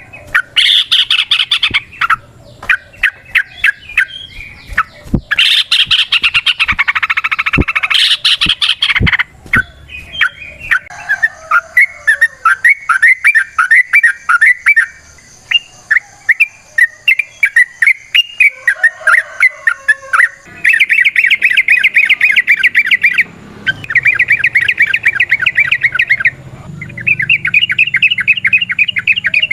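Yellow-vented bulbuls calling in long runs of rapid, chattering notes, each run lasting a second or more, with short pauses between runs. A fainter high-pitched chirping goes on behind them.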